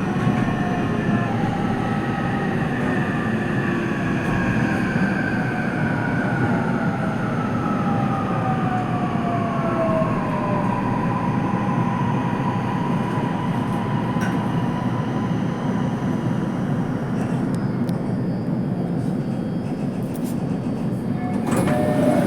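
Inside a Toei Mita Line subway car while the train runs: a steady rumble of wheels and car body. Over the first ten seconds or so the motor whine falls in pitch as the train slows. Near the end it grows louder and new tones come in.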